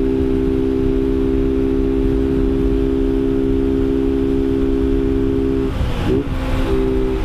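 Motorcycle engine running at a steady pitch while cruising, over a low wind rumble on the rider's microphone. A little under six seconds in, the engine note breaks off with a short wobble, then picks up again near the end.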